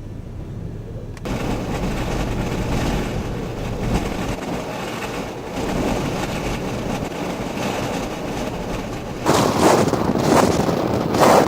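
Strong wind buffeting the microphone: a rushing roar that jumps up suddenly about a second in, with harder gusts near the end.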